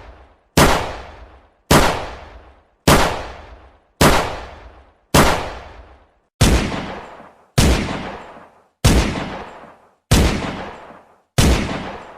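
A series of sharp, gunshot-like bangs, each fading away over about a second, repeated about ten times at an even pace of roughly one every 1.2 seconds.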